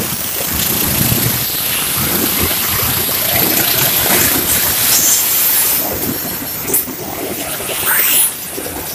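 Passenger train running: a steady rushing noise, with a couple of brief louder sounds near the end.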